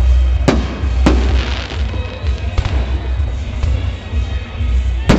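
Fireworks shells bursting in sharp bangs: about half a second in, at about a second, again at about two and a half seconds, and a loud one near the end. A continuous rumble and crackle runs underneath, with music playing along.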